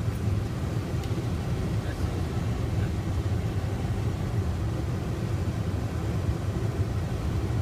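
Steady low rumble of a car driving: engine and tyre noise heard from inside the cabin.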